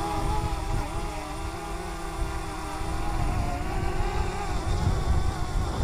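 Strong wind buffeting the microphone with a gusty low rumble. Under it, the propellers of a hovering DJI Mavic Mini quadcopter hum, their pitch wavering slightly as the motors fight the gusts.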